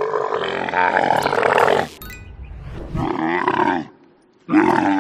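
Dromedary camel calling in deep, drawn-out groans: a long call of about two seconds, a shorter one after a low rumble, and another starting near the end.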